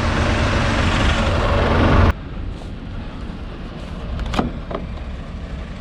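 Compressed air rushing from a Scania V8 lorry into the cement tank trailer's air system through the freshly connected airlines, a loud hiss over the idling engine, filling the trailer's reservoirs because it was down on air. The hiss stops abruptly about two seconds in, leaving quieter background with a couple of short sharp sounds.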